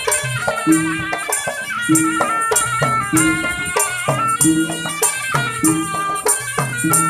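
Malay traditional gendang ensemble playing procession music: gendang drums beat a steady repeating rhythm under a reedy pipe melody that wavers and ornaments its notes.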